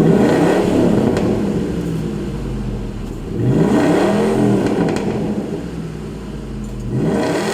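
Ford F-150 SVT Lightning's V8 through a Borla ATAK catback exhaust, revved three times, the pitch climbing and falling back each time, with steady running in between.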